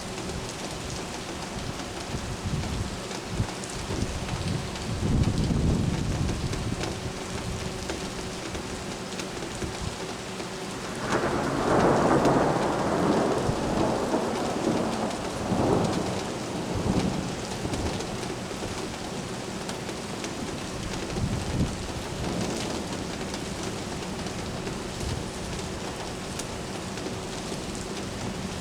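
Steady rain falling during a thunderstorm, with thunder rumbling. A low roll comes about five seconds in, then a louder peal starts suddenly about eleven seconds in and rolls on for several seconds before fading back into the rain.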